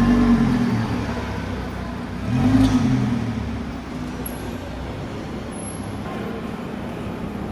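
Cars passing on a street in traffic: engine sound swells and fades twice, first right at the start and again about two and a half seconds in, each time rising then falling in pitch, over steady traffic noise.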